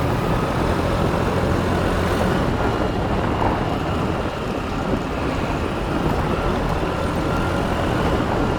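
Motorbike running at speed on the road, its engine mixed with a steady rush of wind and road noise.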